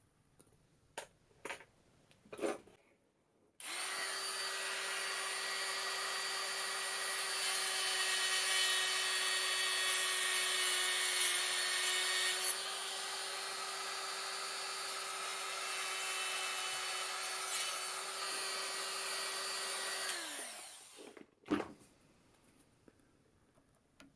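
A small high-speed power tool, used on the cast replacement moulding, starts a few seconds in and runs steadily for about seventeen seconds. Its whine holds one pitch with a slight dip partway through, then winds down. Light clicks come before it and a single knock after it.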